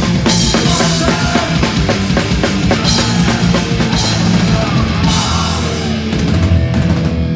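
Hardcore punk band playing live: distorted guitar, bass and drum kit with repeated cymbal crashes. About six seconds in the cymbals fall away while held low notes ring on.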